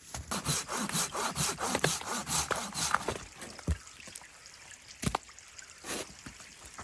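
Hand saw cutting through wood in quick back-and-forth strokes for about three seconds, then stopping. Two sharp knocks follow.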